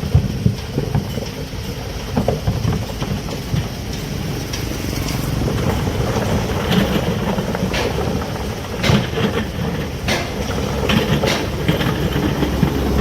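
Heavy machinery engine running with a steady low rumble, with several sharp metallic clanks and knocks in the second half.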